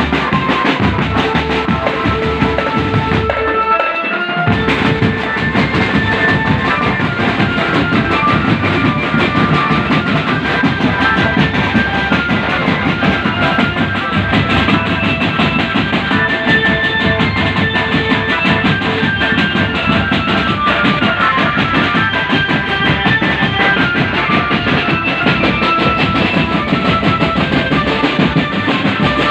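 A band playing live for a sound check: a drum kit with kick drum, and guitar, playing loudly and without pause. The low end drops out briefly about four seconds in.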